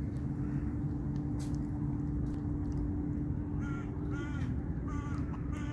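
A bird calling four times in quick succession, starting about three and a half seconds in, over a steady low background hum.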